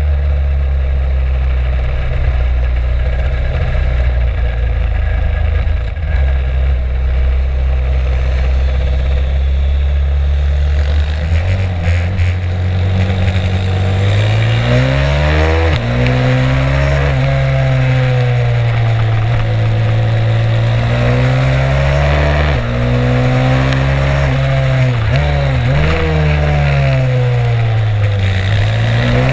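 Stomp 140 pit bike's single-cylinder four-stroke engine, heard onboard while riding. It holds a steady low note for the first half, then from about halfway the engine note rises and falls again and again as the throttle is opened and closed.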